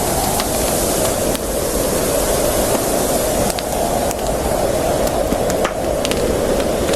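Campfire burning, with scattered sharp crackles and pops over a steady rushing hiss.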